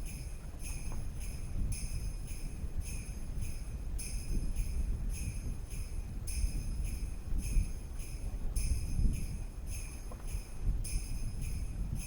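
Sleigh bells jingling in a steady, even rhythm over a low rumble.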